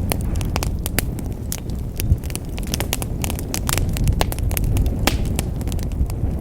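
Fire burning in a fireplace: a steady low rumble of flames with frequent irregular crackles and pops.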